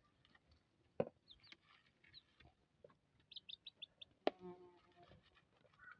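Quiet yard with a bird giving a quick run of five short high chirps about three and a half seconds in, then a short lower call with several tones a little later, over scattered faint knocks.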